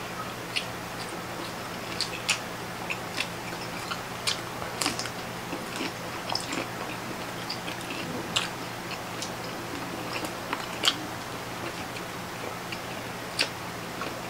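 Close-up chewing and mouth sounds of people eating octopus, shrimp and rice: scattered short clicks and smacks, over a steady low hum.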